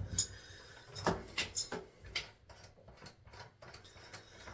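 Irregular metallic clicks and ratcheting of a wrench working loose a fitting on a Delta Roma tub faucet valve, several clicks a second, louder in the first couple of seconds.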